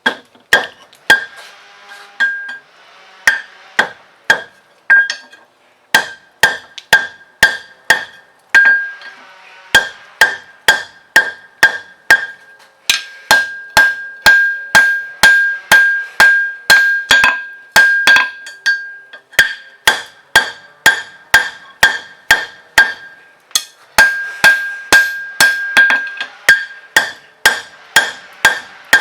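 Hand hammer striking hot steel on an anvil while forging a bottle opener. The blows come at about two a second, each with a high ringing, in runs broken by short pauses.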